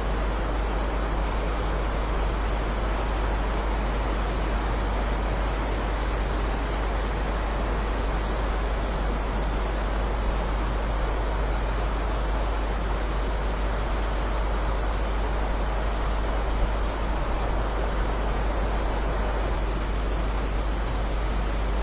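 Steady heavy rain: an even, unbroken hiss with a deep low rumble underneath.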